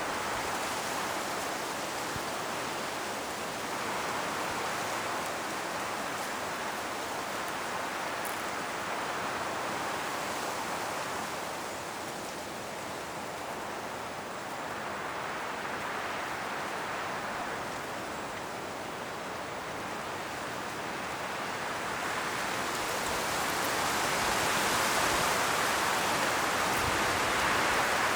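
Strong wind blowing through forest trees, rustling the leaves in a steady hiss that swells and eases in slow gusts, building louder over the last few seconds.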